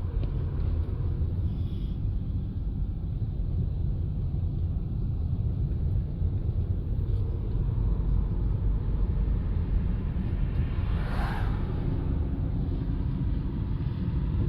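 Steady low rumble of a car driving, road and engine noise, with a short whoosh about eleven seconds in.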